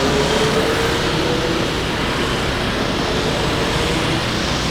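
Street traffic noise: a steady rush of passing vehicles, with one engine's hum fading out over the first couple of seconds.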